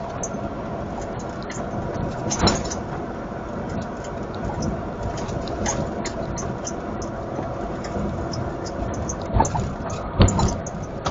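Steady vehicle and road noise, with a few short knocks: one about two and a half seconds in and two near the end.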